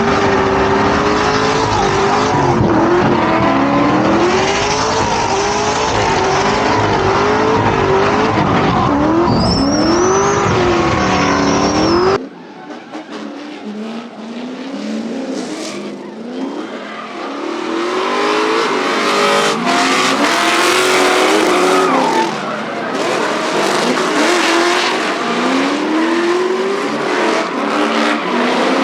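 Drift cars' engines revving up and down hard, with tyres squealing as the cars slide. About twelve seconds in, the sound cuts abruptly to a thinner, quieter stretch, then builds back up to full revving.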